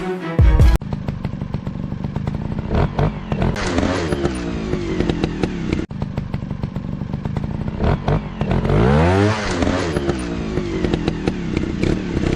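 Dirt bike engines running and revving, with a clear rise and fall in pitch about nine seconds in and scattered clattering knocks. The first second is the tail of background music.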